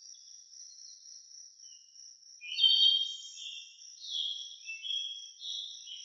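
A bird giving a run of short, shrill chirping calls starting about two and a half seconds in, over a steady high-pitched insect drone.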